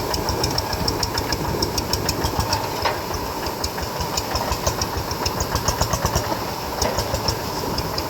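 Paddy-field tractor's engine running with a steady, even pulse of several beats a second.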